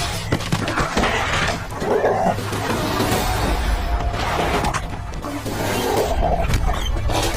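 Wolves snarling and growling over dramatic background music with a steady low drone, with two rough growling bursts, about two seconds in and again near the end.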